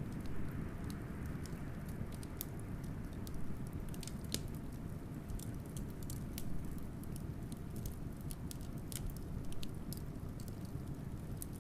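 Wood fire crackling, with many sharp, irregular pops and snaps, over a steady low rumble of blizzard wind.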